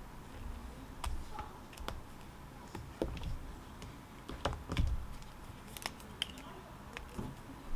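Scattered light clicks and taps at an irregular pace, a few at a time, over a quiet room background.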